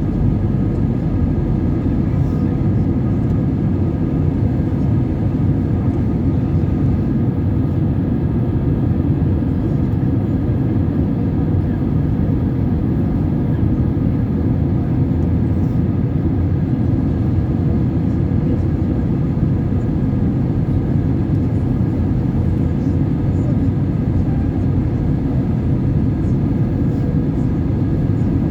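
Steady airliner cabin noise of engines and rushing air, heaviest in the low end, with a few faint steady hums higher up, as the plane descends before landing.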